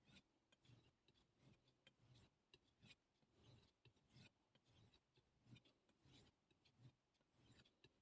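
Near silence, with faint, irregular scraping strokes of a steel knife blade being sharpened on a whetstone.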